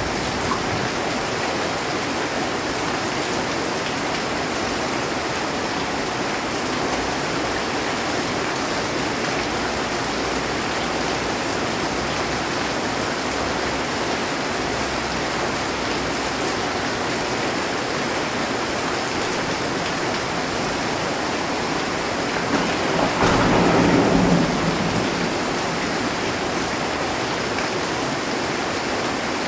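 Heavy rain falling steadily on a metal roof, with a clap of thunder about three-quarters of the way through that lasts a couple of seconds and is the loudest moment.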